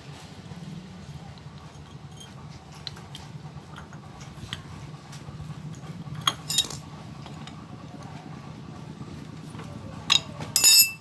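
Small metal parts and tools clinking during work on a motorcycle carburettor: scattered light taps, two sharper clicks about six seconds in, and a loud ringing metal clink near the end, over a steady low hum.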